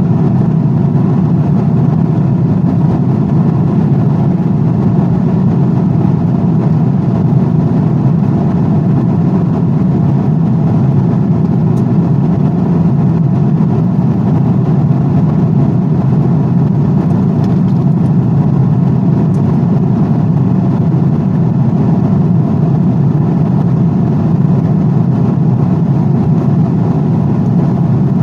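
Airplane cabin noise in flight: a steady, even low rumble that does not change.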